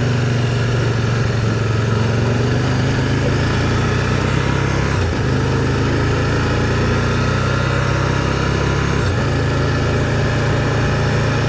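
Motorcycle engine running steadily while riding, under a constant rush of wind and road noise. The engine note breaks briefly twice, about five and about nine seconds in.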